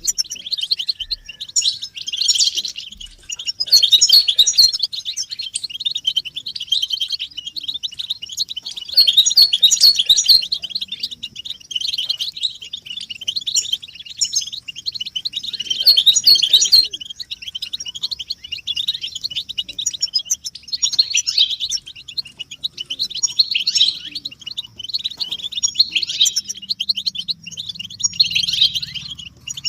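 A group of European goldfinches twittering, a dense unbroken stream of quick high chirps with louder flurries every few seconds. This is the excited group twittering used to stir silent male goldfinches into song.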